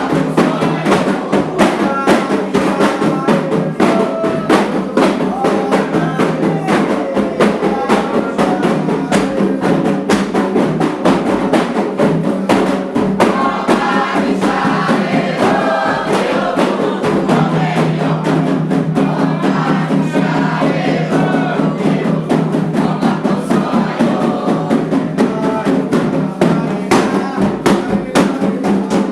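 Candomblé ritual music: atabaque hand drums playing a fast, steady rhythm under a group of voices singing together.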